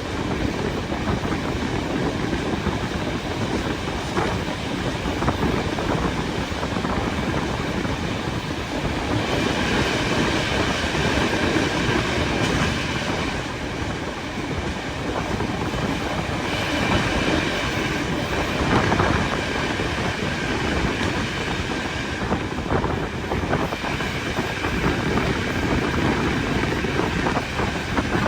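A train running along the track in a steady rolling rumble. A higher metallic ringing from the wheels comes in for several seconds midway.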